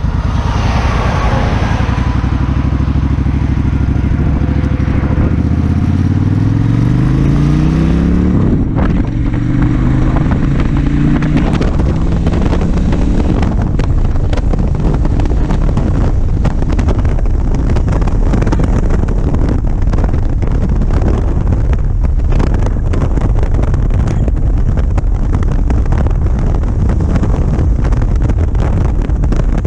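Suzuki Intruder 1400 V-twin engine pulling away, its note rising steadily for about eight seconds, then running on at road speed with wind rushing over the microphone.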